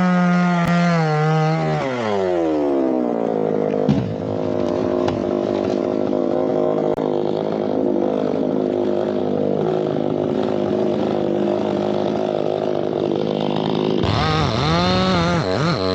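Chainsaw running at high revs, the pitch falling away about two seconds in. It then runs on at lower, rougher revs and revs up and down again near the end.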